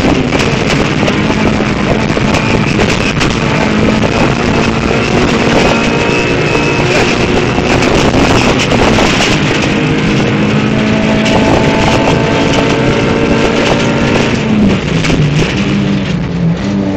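Toyota Corolla rally car's four-cylinder engine running hard at high revs, heard loud from inside the cabin over a steady haze of road noise and rattles. Near the end the engine note drops and wavers in steps.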